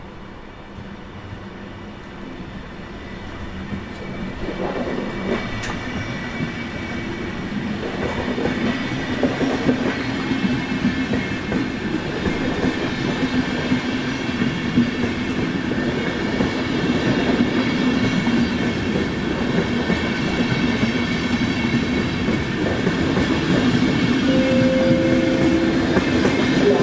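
A train approaching along the station track, growing steadily louder, with a steady hum running through it.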